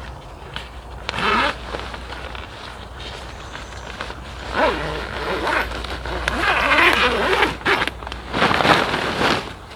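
A zipper being pulled in three runs, a short one about a second in, a long one through the middle and another near the end, with a sliding pitch on each pull, as gear is packed up.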